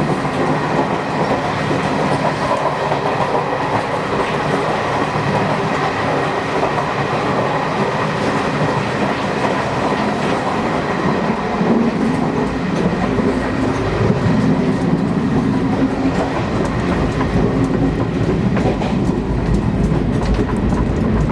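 ICF passenger coach of a running train, heard from inside: a steady rumble of wheels on rails with scattered sharp clicks, the low rumble growing stronger about halfway through.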